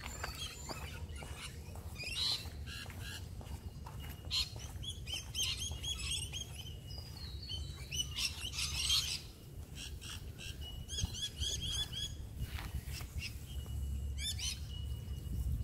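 Wild birds chirping and calling in quick runs of short, repeated notes, over a steady low rumble.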